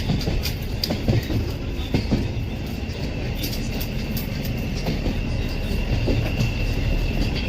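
Moving passenger train: a steady rumble of the coach running on the rails, with sharp clacks of the wheels over rail joints a few times early on and a thin high wheel squeal building in the second half.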